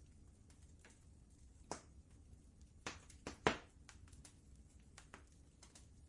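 Wood fire crackling in a fireplace: scattered sharp pops and snaps at irregular intervals, a quick cluster of the loudest about three to three and a half seconds in, over a low steady rumble.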